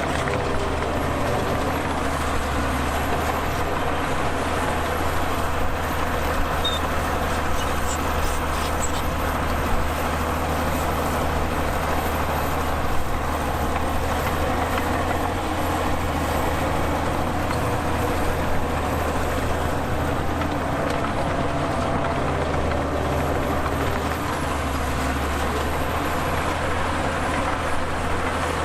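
Heavy diesel engine of earthmoving machinery running steadily, a constant low drone with mechanical noise above it.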